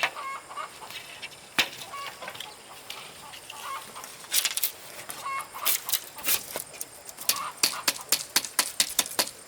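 Chickens clucking in short calls, among a scatter of sharp clicks or knocks that come in a quick run near the end.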